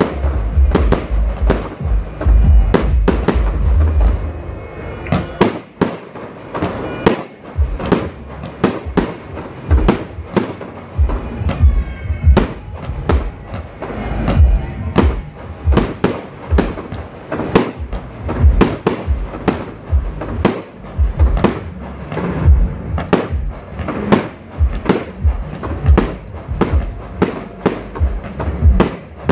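Fireworks display: aerial shell bursts going off one after another, one or two bangs a second, with a deep rumble under the first few seconds.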